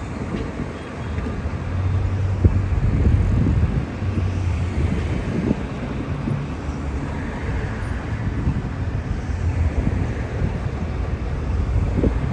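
Roadside traffic: a heavy vehicle's engine hum with tyre and road noise going by.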